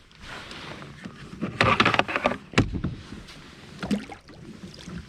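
Water splashing for under a second near the middle, followed by a sharp knock on the kayak and a smaller one a second later, as a big smallmouth bass thrashes at the surface while being landed.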